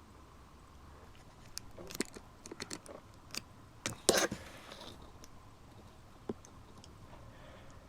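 An irregular run of sharp clicks and knocks, clustered in the first half and loudest about four seconds in, with one more near six seconds, over a faint steady hum.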